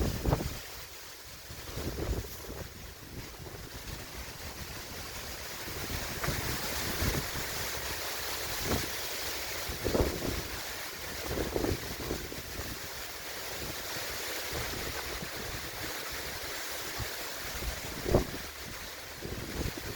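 Strong wind blowing over the microphone: a steady rush broken by several loud, low buffets as gusts hit it.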